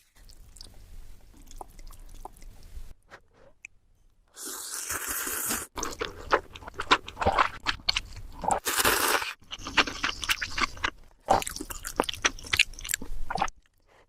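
Close-miked eating sounds: food being crunched and chewed, with many sharp mouth clicks. It is quiet for the first few seconds and loud from about four seconds in.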